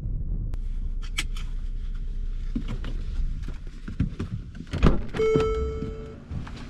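Vehicle door clicks and a loud thunk, then a steady electronic beep lasting about a second.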